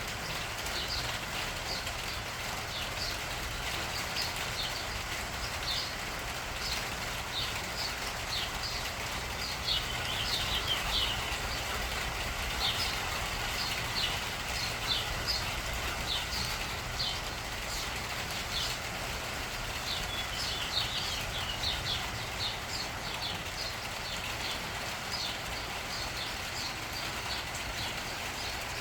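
A flock of small songbirds chirping without pause, many short high chirps overlapping, busier in several bouts, over a steady low rumble.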